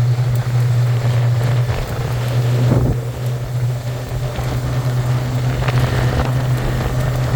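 Motorboat engine running steadily at speed with a constant low drone, with wind buffeting the microphone.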